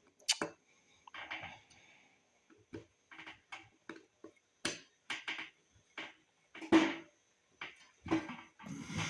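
Irregular clicks and light knocks of small carburetor parts and hand tools being picked up and set down during carburetor assembly, about ten separate sounds with a louder cluster near the end.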